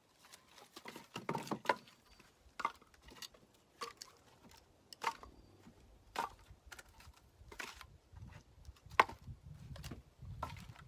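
Scattered light knocks and clicks, about one a second, with a faint low hum coming up near the end.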